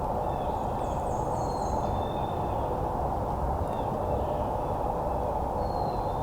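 Steady, even low rushing noise of the outdoors, with a few faint, high songbird chirps and trills over it near the start and again near the end.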